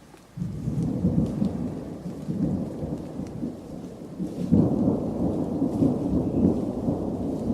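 Thunder rumbling from a thunderstorm: a loud low rumble breaks in suddenly about half a second in and keeps rolling, swelling again about halfway through.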